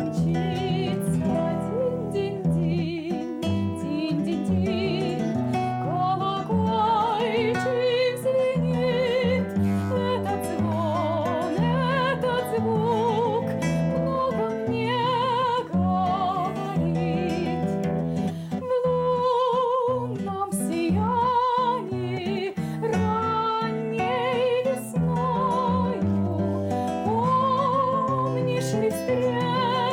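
Trained classical soprano voice singing a Russian romance with wide vibrato, accompanied by plucked acoustic guitar.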